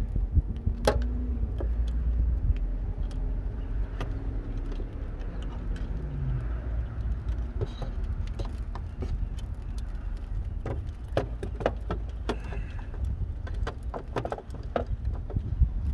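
Scattered clicks, taps and small rattles of hands fastening a zip tie around the capacitor, more frequent in the second half, over a steady low rumble.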